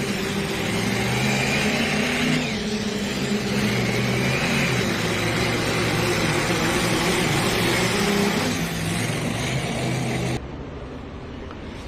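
Diesel pulling truck's engine running hard under load as it drags the sled, with a high whistle that rises and fades twice. The engine sound drops off suddenly about ten seconds in as the pull ends.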